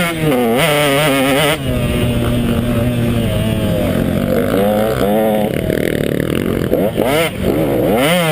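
KTM 150 XC two-stroke dirt bike engine under riding load, its revs rising and falling as the throttle is worked, steadier through the middle and with quick sharp blips near the end.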